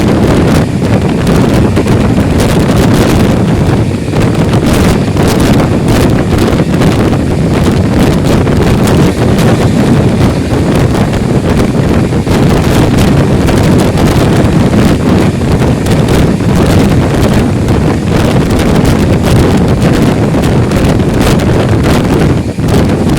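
Loud wind buffeting the microphone over the steady rumble of an express passenger train running at speed, with many small rattles and clicks.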